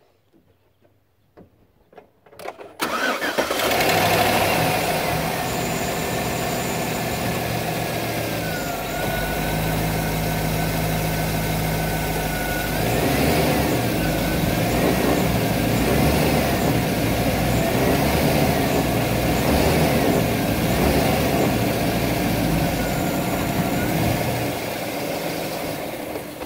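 Chevrolet Silverado's 5.3-litre V8 cranking and catching about three seconds in, then running steadily. In the second half the revs rise and fall several times. The truck has a bad motor mount.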